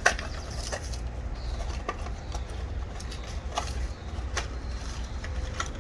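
A few light clicks and taps scattered through, as spark plugs and a socket are handled, over a steady low rumble.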